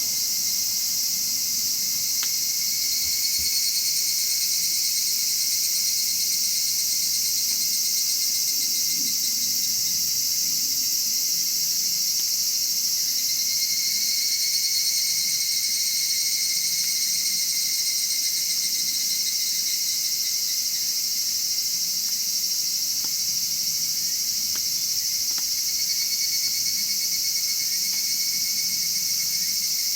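A steady chorus of trilling insects, its pitch bands swelling and fading slightly in turns. Underneath, a wood fire crackles faintly, with an odd sharper pop.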